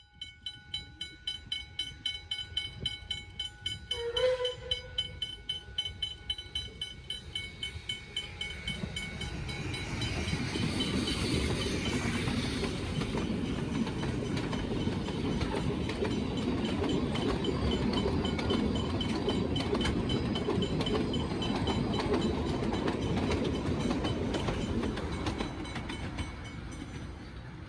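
Level crossing bells ringing at about two to three strokes a second, with a short steam whistle blast about four seconds in. Then Puffing Billy's NA-class narrow-gauge steam locomotive 8A runs past the crossing, building from about eight seconds in and fading near the end.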